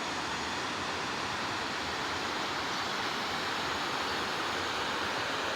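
River water rushing: a steady, even rush with no pauses or changes.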